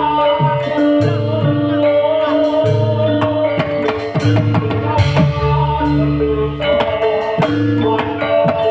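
Live band music, an instrumental passage: a bass line moving between held notes under repeated drum hits and sustained higher melodic notes.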